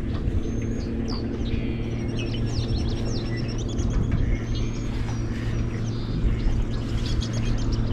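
Small birds chirping and twittering many times over, above a steady low hum and a low wind rumble.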